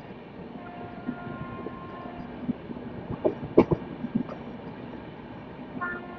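Train running on the rails: steady running noise with faint held tones that come and go, and a cluster of sharp knocks a little past the middle.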